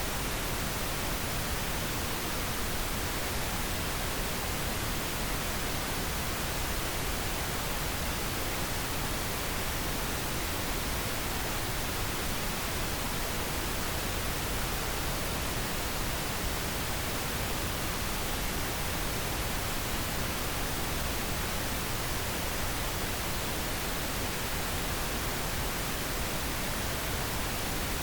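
Steady synthetic pink noise: an even, unbroken hiss across the whole range, with no changes.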